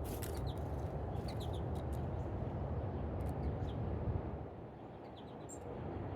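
Small birds giving short, high, scattered chirps, a few notes at a time, over a steady low background rumble.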